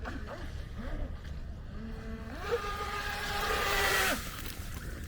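Electric motor of an M-Jet 35 RC jet ski whining at one steady pitch with a bright hiss for about two seconds, starting about halfway through and cutting off sharply.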